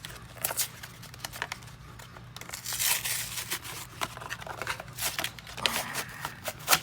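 Foil wrapper of a Yu-Gi-Oh booster pack crinkling and tearing as it is worked open, a run of sharp crackles with a denser patch of rustling about three seconds in; the pack is hard to open.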